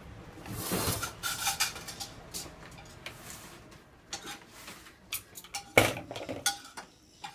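Cups, bowls and plastic dishes clattering and knocking as they are set into a dishwasher's top rack, a string of irregular clinks and knocks with one louder knock near the end.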